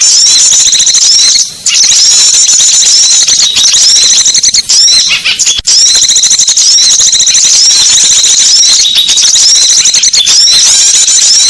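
Small-bird lure recording: a dense, high-pitched chirping and twittering of small songbirds that barely pauses, breaking off briefly about a second and a half in.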